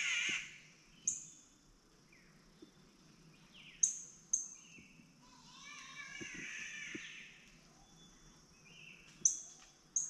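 Rainforest birds calling: a warbling song at the start and again midway, with several short, sharp high calls, one about a second in, two near four seconds and one near the end.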